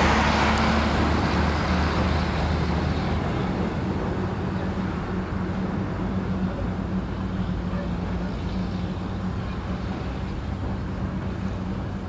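Diesel locomotive of a narrow-gauge sugar cane train running with a steady low engine hum, growing somewhat fainter over the first few seconds, then holding steady.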